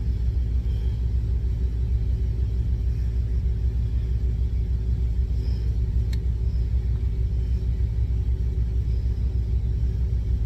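Steady low rumble of an idling truck engine, with one faint click about six seconds in.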